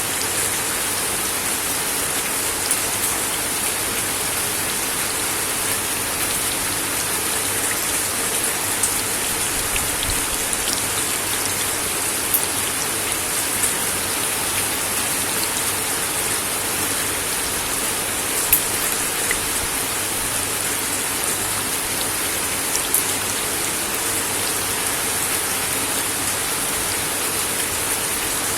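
Steady rain falling on a wooden deck: an even hiss of drops, with a sharper single drop hit standing out every few seconds.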